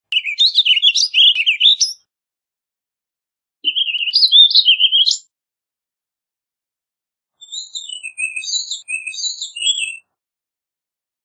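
Warbling vireo singing: three quick, warbled phrases of up-and-down notes, each about one and a half to two and a half seconds long, with pauses between them.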